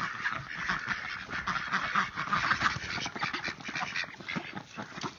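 A flock of domestic ducks quacking in a busy, overlapping chatter, easing off near the end.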